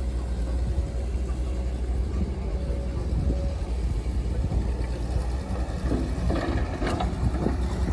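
Heavy diesel engine of earthmoving machinery running steadily with a low hum, with a few short sharper sounds about six to seven seconds in.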